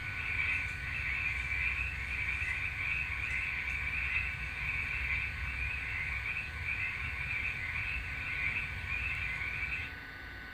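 Frogs calling in a chorus, a dense, pulsing trill of calls that breaks off briefly near the end.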